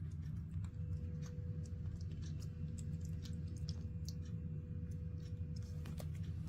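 Scattered small clicks and smacks of a baby monkey eating a snack, over a steady low hum; a faint steady tone sounds through most of it.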